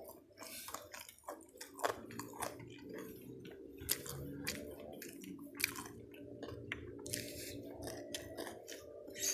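A person chewing a mouthful of spicy smashed fried chicken (ayam geprek) and rice up close, with frequent short wet smacks and clicks of the mouth.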